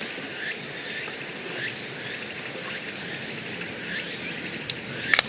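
Summer insect chorus, a steady high buzzing with short chirps repeating about once a second, with a couple of sharp clicks near the end.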